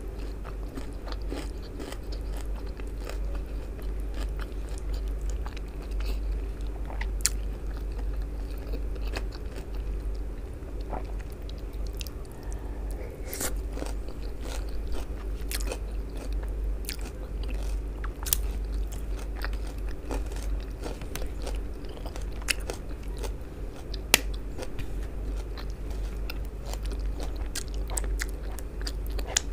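Close-miked eating sounds: a person chewing and smacking with wet mouth noises, licking a soft creamy food off her fingers. Many short, sharp mouth clicks are scattered throughout.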